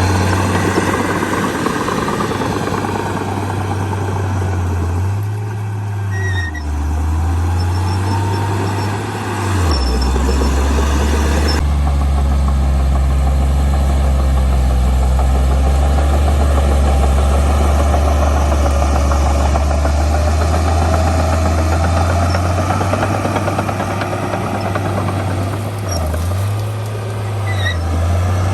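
Heavy diesel engine of earthmoving machinery running steadily, its low note dipping and shifting in pitch a few times as the load changes.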